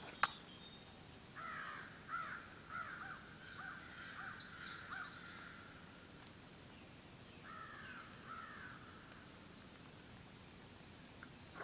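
Outdoor creekside ambience: a bird calls in two runs of short, repeated calls, over a steady high-pitched insect drone. A single sharp click comes right at the start.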